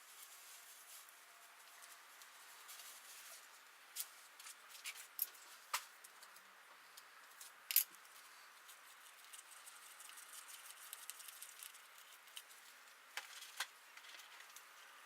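A handful of scattered light clicks and taps over faint hiss, the sharpest about halfway through, with a pair near the end. No engine is running.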